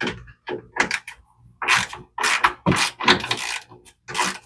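Ratchet wrench clicking in short, irregular strokes as bolts are backed out.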